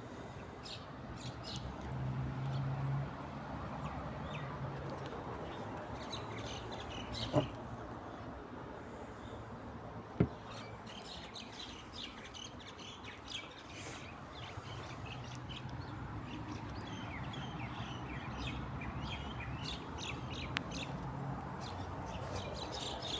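Small birds chirping off and on over a steady low hum, with two sharp clicks, one about seven seconds in and one about ten seconds in.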